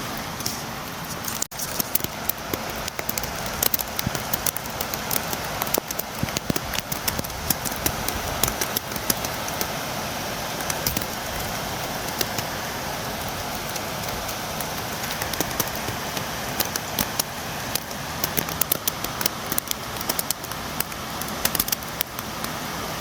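Steady rain: a constant hiss with many sharp, irregular taps of drops striking a window close by.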